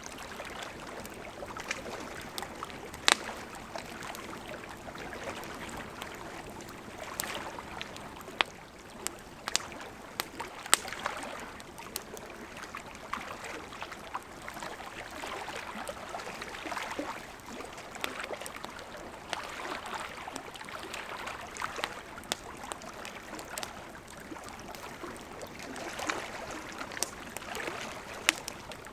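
Wood campfire crackling, with a few sharp pops scattered through, over the steady rush of a gently flowing river.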